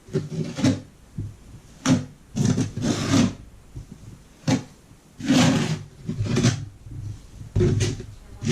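Short, irregular scrapes and knocks, roughly one a second, of hand work with tools and materials.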